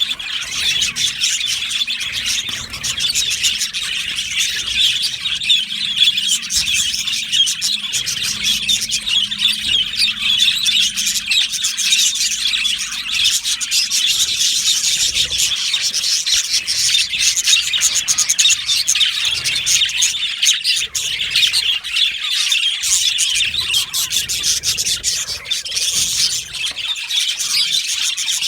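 A flock of budgerigars chirping continuously, many quick high calls overlapping with no pause.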